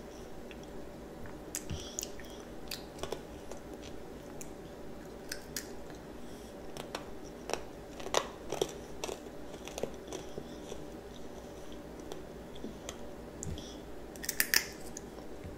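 Close-up chewing and biting of candied strawberries, with scattered sharp crunches and crackles of the hard sugar coating, and a louder cluster of crunches near the end.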